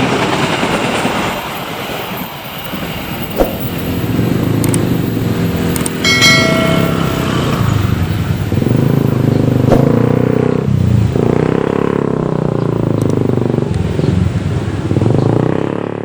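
The noise of a passing train dies away in the first two seconds. Then road vehicle engines, motorcycles among them, run close by, with a brief high tone about six seconds in.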